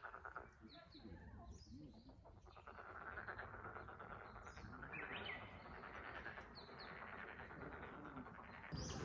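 A faint, steady chorus of rapidly pulsed animal calls, which the listeners take for frogs calling from the wetland. Short, high bird chirps are scattered over it.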